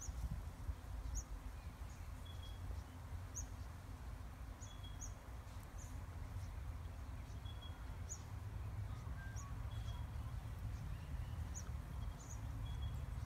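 Small birds chirping in short, high notes about once a second, over a low steady rumble.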